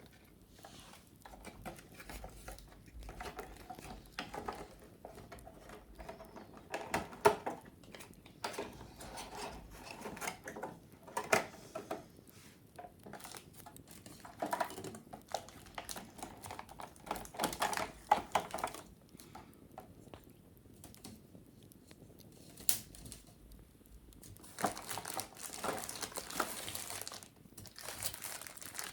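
Wicker basket being handled and cleaned: irregular crackling, creaking and clicking of the woven cane, with a few sharper snaps and a denser scratching over the last few seconds.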